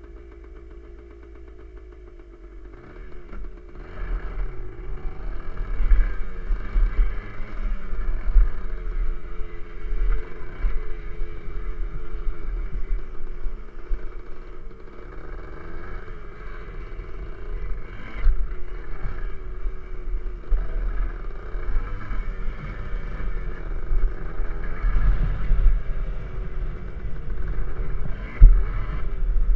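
Small dirt-bike engine being ridden, revving up and down as the rider works the throttle. It runs more quietly for the first couple of seconds, then gets much louder about three seconds in.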